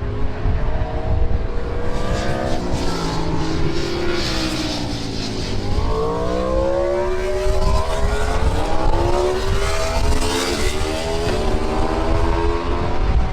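Several MotoGP racing motorcycle engines running at high revs at once, their pitches rising and falling as they accelerate, brake and pass, over a heavy low rumble.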